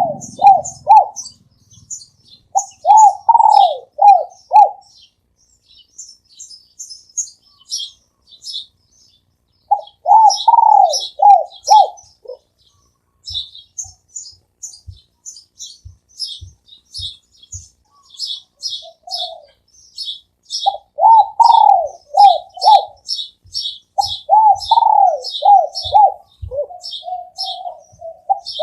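Spotted dove cooing in repeated phrases of four or five notes, with pauses between phrases. Small birds chirp high and fast all through.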